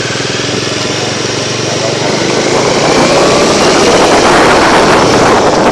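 Bajaj Dominar 400's single-cylinder engine running in traffic; about halfway through it gets louder as wind noise on the microphone builds, the bike picking up speed.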